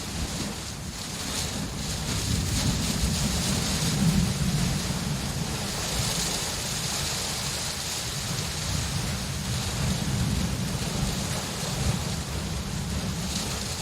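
Steady heavy rain with low thunder rumbling that swells and fades.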